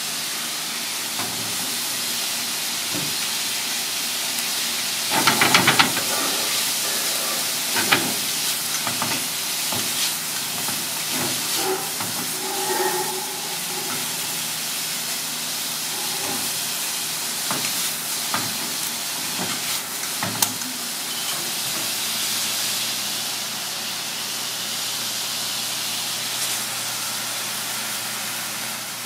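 Squid and sliced onions sizzling in a small pan on a gas burner, a steady frying hiss. A burst of rapid clattering about five seconds in and a few sharp knocks later come from the pan being tossed and stirred.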